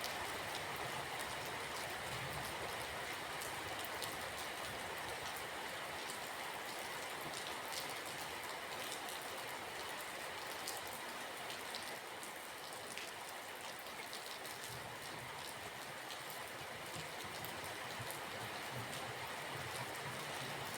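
Steady rain falling, an even hiss with many small drop ticks, under a faint low rumble.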